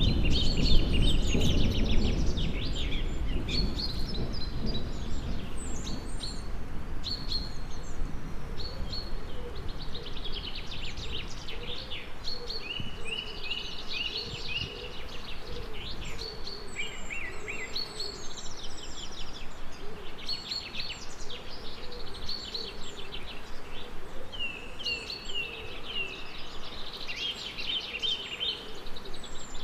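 A chorus of songbirds chirping and trilling, with a low rumble of thunder dying away over the first few seconds.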